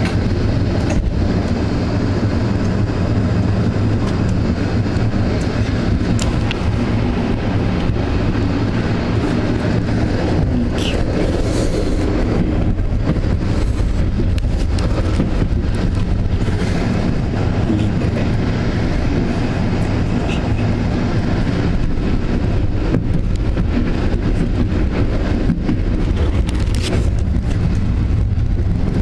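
Passenger train running: a steady rumble of the carriage and its wheels on the rails, with wind rushing in through an open window. A few sharp clicks come near the middle and once near the end.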